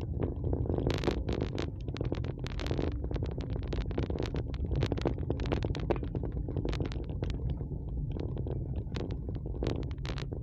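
Steady low rumble of a vehicle on the move, with wind buffeting the microphone and frequent short crackles throughout.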